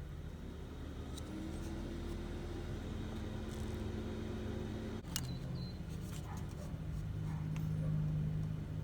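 Steady low hum of a car engine idling, its pitch drifting slightly, with a few light clicks and taps.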